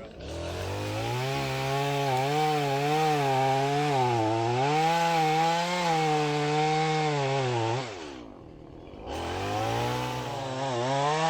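Two-stroke chainsaw cutting wood, its engine note wavering up and down as the chain bites. About eight seconds in it drops to idle, then revs back up a second later and goes on cutting.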